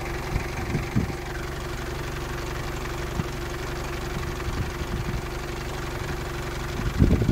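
Engine idling with a steady low hum, and a few short low thumps of wind buffeting the microphone.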